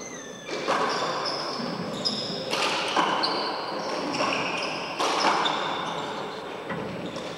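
A four-wall handball rally: the ball smacking the court walls with echoing hits, and sneakers squeaking sharply on the court floor again and again.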